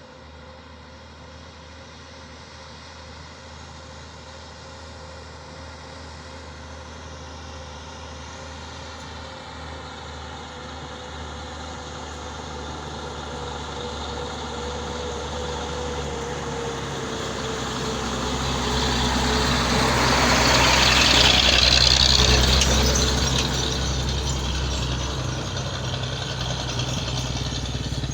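Heavy truck engine running steadily and growing louder as the truck draws near. It is loudest about 21 seconds in, with a rush of engine and tyre noise as it passes close, then eases off a little.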